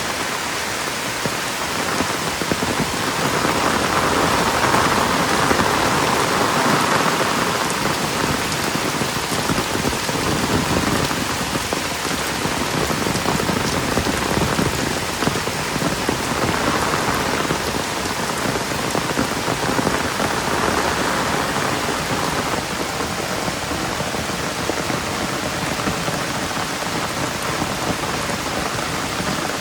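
Steady heavy rain falling and pattering on surfaces, a dense continuous hiss that swells and eases slightly now and then.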